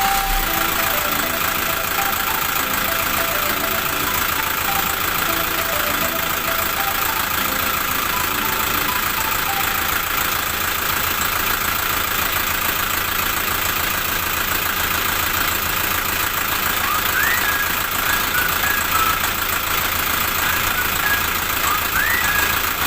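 Steady machine noise, like an engine idling, running without change throughout.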